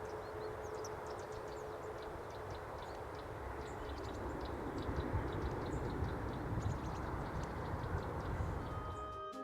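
Short, high, faint bird calls, scattered and repeating, over a steady low rumble. A faint steady hum fades out about halfway through.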